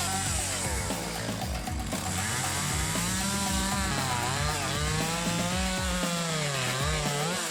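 Chainsaw engine running at high revs, its pitch rising and falling as it bogs into and frees from the cut. Background music with a steady beat plays underneath.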